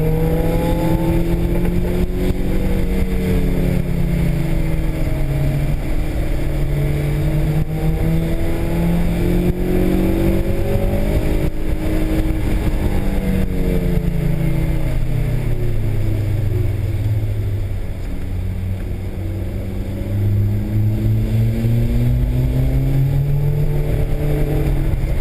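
Honda S2000's four-cylinder engine heard from inside the cabin on a race track. It rises and falls in pitch as the car accelerates and slows through corners, dropping lowest and quietest about 18 seconds in before pulling up again. Steady road and tyre noise runs underneath.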